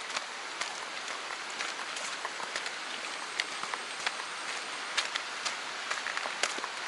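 Steady hiss of running water, with scattered light taps throughout.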